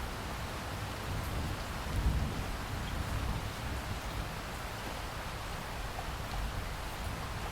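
Steady rain falling, with low rolling thunder rumbling underneath that swells briefly about two seconds in.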